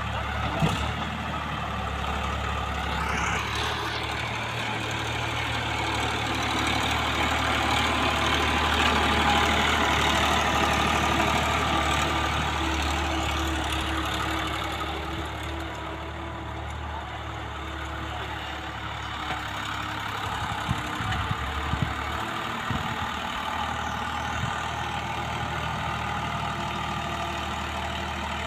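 Tractor engine running steadily, its noise swelling for several seconds then easing back, with a few sharp knocks near the two-thirds mark.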